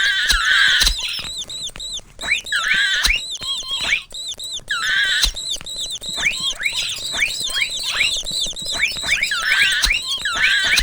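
Mouse squeak sound effects: a rapid run of short, high-pitched squeaks, many sliding up or down in pitch, bunched into quick clusters with brief gaps between them.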